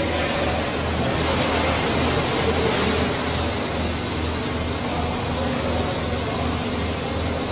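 Steady machine noise with a low throb pulsing about twice a second.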